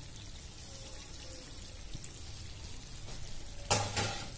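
Chicken kosha frying in oil in a kadai: a steady soft sizzle as the masala cooks down until the oil separates, with two short knocks near the end.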